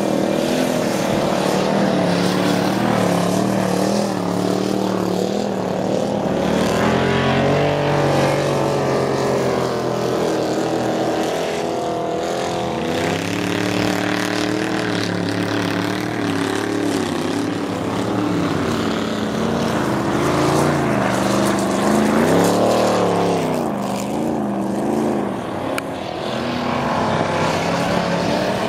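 Engines of several ice-racing cars revving and backing off as they run around the track, with overlapping pitches rising and falling with each throttle change. About two-thirds of the way in, one engine winds up sharply and drops back.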